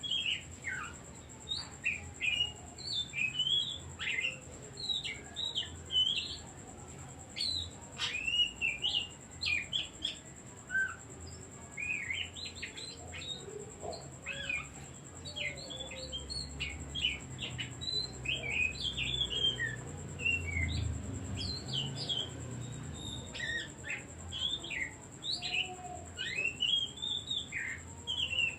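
Oriental magpie-robin singing a fast, varied run of short, sharp whistled notes, sweeping up and down in pitch, with hardly a pause.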